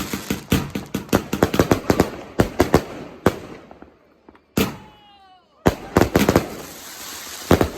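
Fireworks going off in rapid volleys of sharp bangs with crackling. There is a short lull about three and a half seconds in, with a single bang and a brief whistle, before another fast run of bangs.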